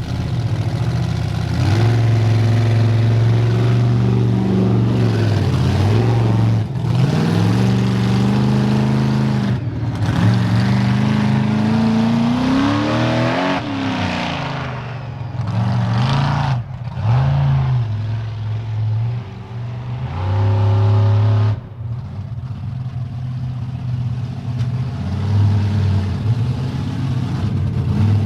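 Bigfoot 18 monster truck's engine running loud and revved up and down several times, its pitch rising and falling, then settling to a lower, steadier run in the last few seconds.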